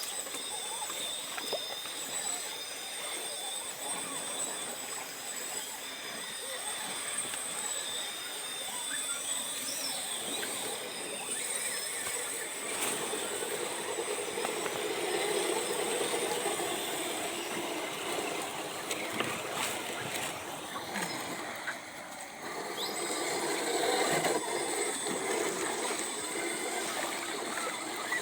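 Water splashing and running, with thin steady high-pitched tones over it; the water grows fuller from about halfway through and briefly drops away a few seconds before the end.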